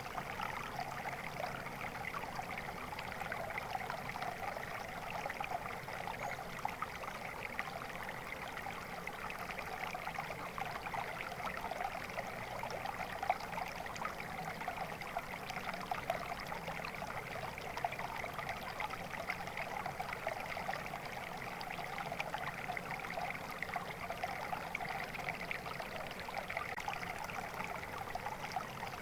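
Flowing water: a stream running steadily over stones, an even babbling with a fine flickering texture.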